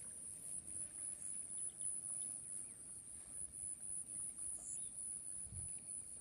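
Steady high-pitched insect drone, like crickets, over faint outdoor noise, with a low dull thump near the end.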